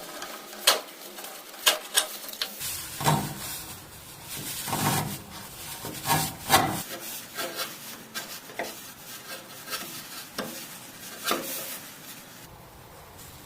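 Scraping and rasping on wood, with irregular sharp clicks and knocks, dying away near the end.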